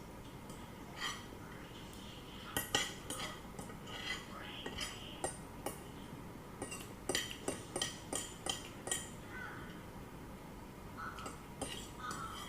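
Cutlery clinking and scraping against a plate during a meal: a string of short, sharp clicks, busiest from about two to nine seconds in.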